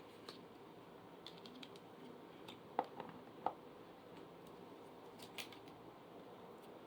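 Scattered light clicks and taps of plastic electric-fan parts being handled and fitted together during assembly, with two sharper clicks near the middle.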